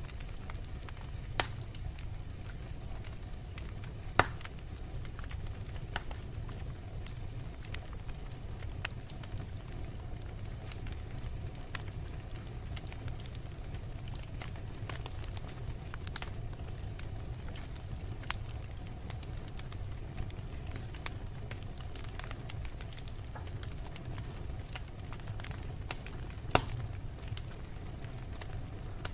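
Wood fire burning in a fireplace: a steady low rumble of flames with scattered sharp crackles and pops from the logs, a few louder pops standing out.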